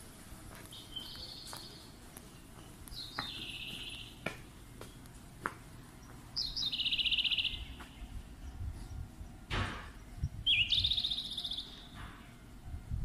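A bird calling four times, each a high, rapidly trilled call about a second long, with light clicks and knocks in between.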